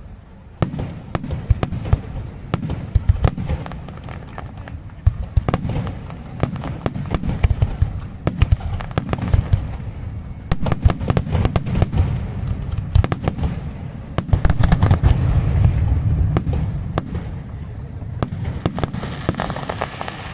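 Fireworks display: a rapid, continuous string of sharp shell bursts and crackling over deep rolling booms, most dense about three-quarters of the way through.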